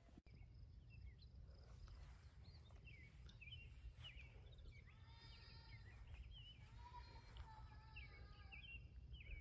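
Faint outdoor ambience: birds chirping and calling over a low, steady rumble, with a few longer held calls about halfway through.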